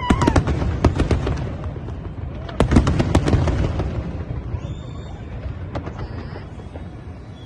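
Aerial fireworks bursting: rapid bangs and crackles come in two clusters, at the start and again about two and a half seconds in, over a low rumble. They thin out and die away in the second half.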